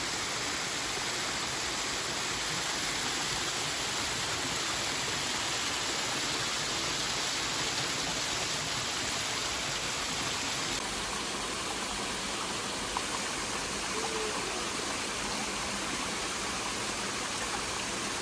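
A stream rushing steadily at a ford: a dense, even hiss of flowing water, with a slight change in its tone about eleven seconds in.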